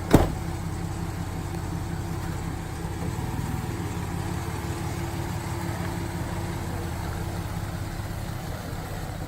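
Truck engine running steadily with a low, even hum, with one sharp thump just at the start.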